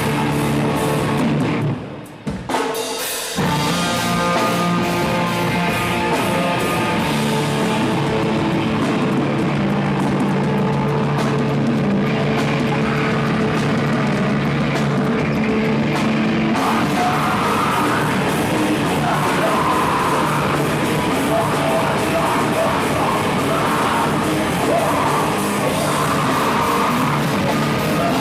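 Live rock band playing loud distorted electric guitars and a drum kit. The band nearly stops for about a second, about two seconds in, then comes back in, and from about halfway a voice sings or shouts over it.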